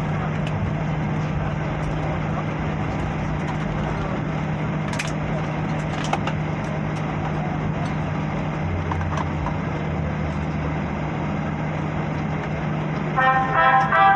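Steady cabin noise of a jet airliner: engine and airflow rush with a constant low hum. A short tune over the cabin speakers starts near the end.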